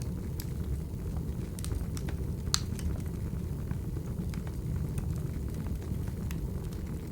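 Wood fire burning: a steady low rumble with scattered crackles and pops, the sharpest pop about two and a half seconds in.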